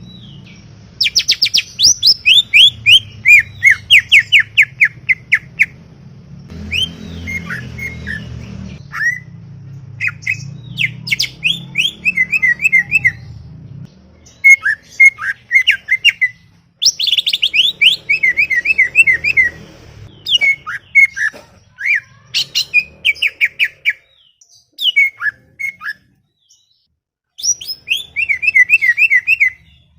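Green leafbird (cucak ijo) singing a chattering song: rapid runs of short, sharply falling notes, delivered in repeated bouts a second or two long with brief pauses between them. A low hum sits under the first half.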